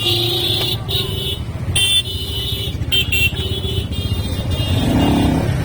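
A motorcycle riding in road traffic, with a steady low rumble of engine and wind, while vehicle horns toot repeatedly in short blasts around it.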